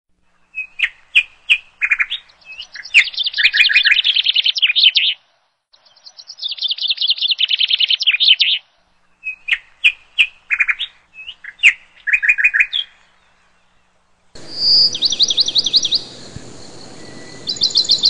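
Songbirds chirping and singing fast trills in repeated phrases, with short silent gaps between them. A steady background hiss comes in about fourteen seconds in.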